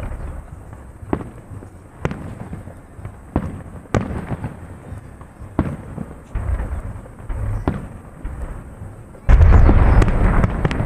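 Festive fireworks salute: separate sharp bangs of bursting shells about once a second or so, with a low rumble between them. About nine seconds in, a sudden, much louder and denser stretch of noise begins.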